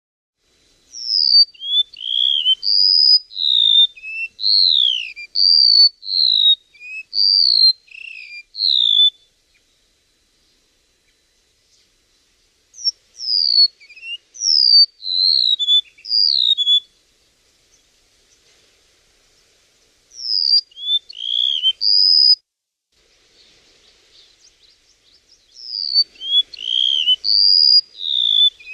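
A songbird singing in four bouts of quick, clear whistled notes that slide up and down, with pauses of a few seconds between the bouts.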